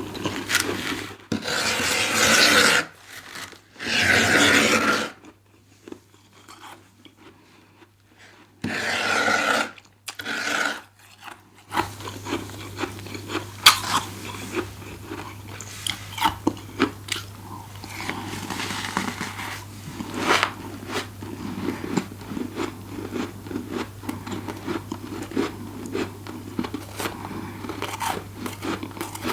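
Freezer frost being bitten and chewed: several loud crunching bites with short pauses between them, then steadier, softer crunching and chewing full of small crackles and clicks from about twelve seconds in.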